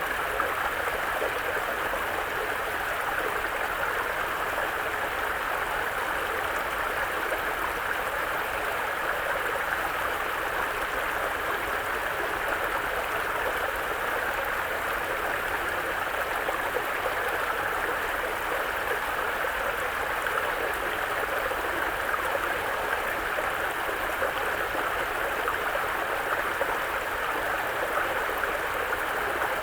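Mountain brook running over stones, a steady rushing and gurgling of water.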